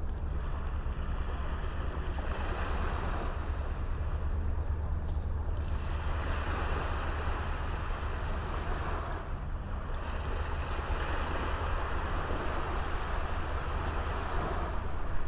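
Small sea waves washing up on a sandy beach, the surf hiss swelling and fading about three times, over a steady low rumble of wind on the microphone.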